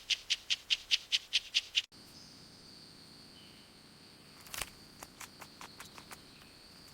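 Rainforest ambience: a rapidly repeated high-pitched animal call, about six pulses a second. About two seconds in, it cuts to a steady high-pitched insect drone with a sharp click and a few scattered faint ticks.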